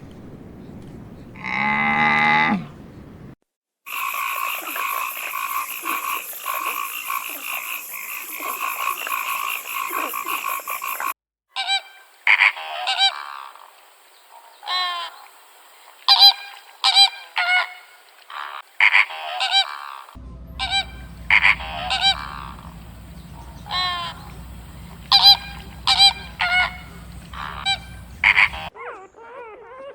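A run of different animal calls cut together. A single drawn-out low call comes about two seconds in. Then comes several seconds of a dense, steady chorus like calling frogs. Then many short sharp calls follow, several a second at times, with a low steady hum under them in the last third.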